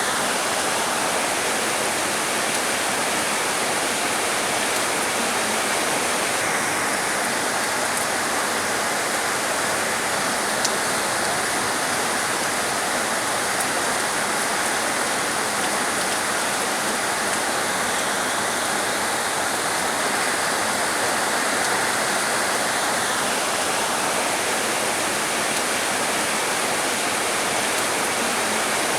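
Heavy rain falling as a steady, dense hiss. A slightly brighter layer of hiss comes in about six seconds in and fades out around twenty-three seconds.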